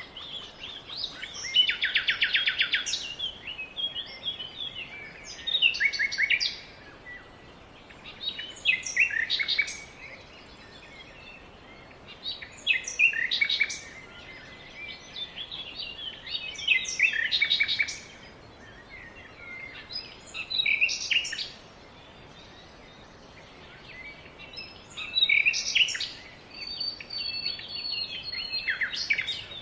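A songbird singing short, varied phrases with pauses between them, about one phrase every four seconds. The first phrase includes a fast trill. A thin, steady high note from another bird is heard near the end.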